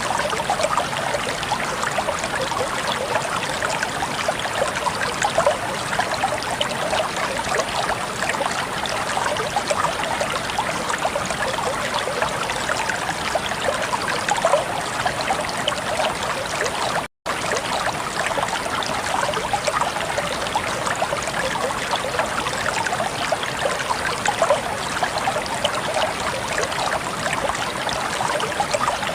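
Water flowing and babbling over stones in a natural stream, a steady trickling splash. It cuts out completely for an instant about two-thirds of the way through.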